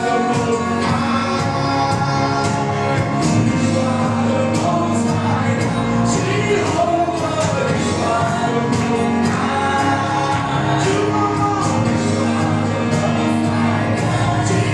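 Live gospel praise-and-worship music: a band with singers and a choir, drums keeping a steady beat.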